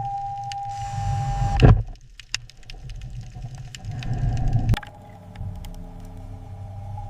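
Whirring of a small electric motor over a low rumble and a steady high hum. It comes in two stretches that each build and then cut off abruptly, about a second and a half in and again near five seconds.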